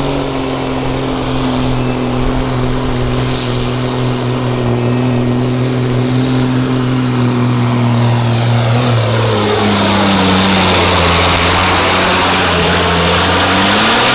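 Semi truck's diesel engine at full throttle dragging the weight sled in a truck pull, a loud steady drone. About nine seconds in the pitch drops as the engine loads down under the sled, then rises again just before the end.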